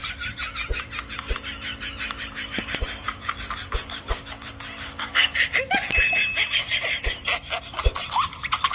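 A person laughing hard and without a break, in quick repeated bursts, over a faint steady hum.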